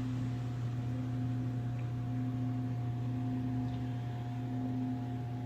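A steady mechanical hum with a low drone and a few constant tones above it, unchanging throughout.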